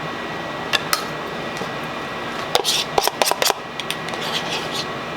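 Light clicks and clinks of utensils against dishes, a couple near the start and a quick run of them about three seconds in.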